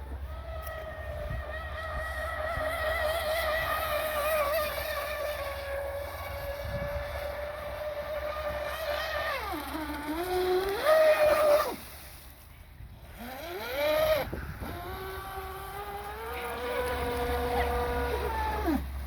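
Electric motor whine of a radio-controlled boat running on the water, wavering in pitch as the throttle changes. The pitch dips and climbs again before cutting off about twelve seconds in, then comes back and holds steadier and a little lower near the end.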